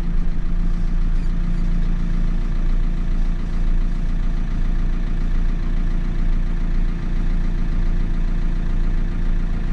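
Diesel engine of a JCB 3CX backhoe loader running at a steady, unchanging speed with a constant low hum.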